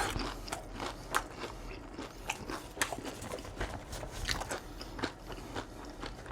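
Close-miked chewing of crunchy fried food: irregular crisp crunches and bites several times a second, with softer wet chewing between them.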